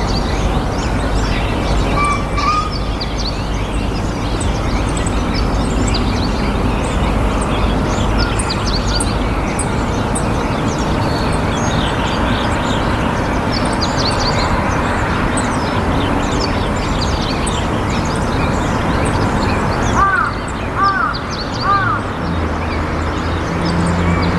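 Many small birds chirping over a steady outdoor background, with three loud arching calls a little under a second apart near the end.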